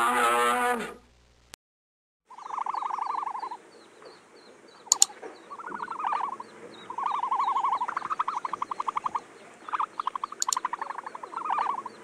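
A drawn-out bellowing animal call with a wavering pitch ends about a second and a half in. After a short gap come repeated trilled calls, each a quick run of pulses about a second long, with two sharp clicks among them.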